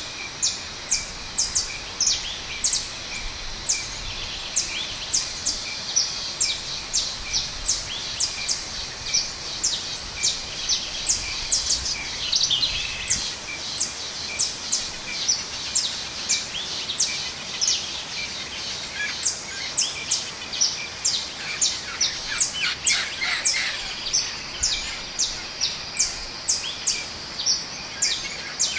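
Small bird chirping: short, high notes repeated about twice a second over a steady outdoor hiss. Quicker, lower twittering joins in about halfway through and again later.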